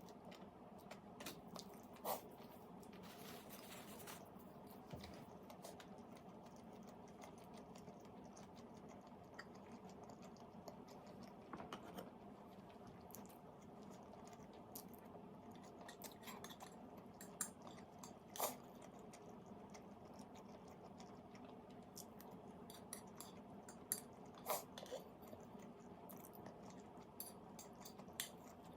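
A person chewing food, faint, with scattered crunchy bites and mouth clicks.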